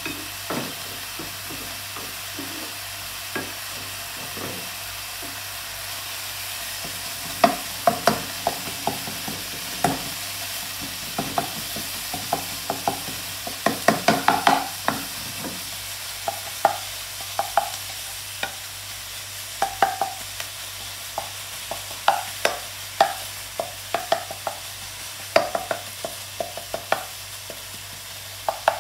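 Shredded pork ham sizzling as it fries in a pan, stirred with a wooden spatula that scrapes and knocks against the pan. The knocks begin about a quarter of the way in, come thick and fast around the middle, and carry on irregularly after that.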